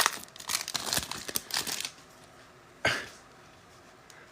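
Trading-card pack wrapper crinkling and cards being handled, a rapid rustle of small clicks for about two seconds. A single short puff of noise about three seconds in.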